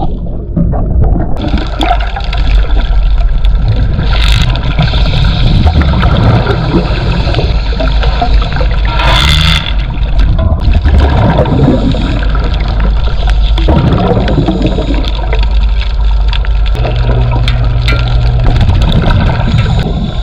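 Underwater water noise: gurgling and bubbling over a steady low rumble, with louder rushes of bubbles about every five seconds.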